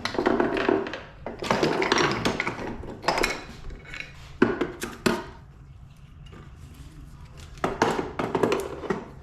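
Metal tools and dirt-bike engine parts clanking and rattling as they are handled during the engine's removal from the frame. The clatter comes in irregular bursts, with sharp knocks about four and a half and five seconds in and a quieter stretch before it picks up again near the end.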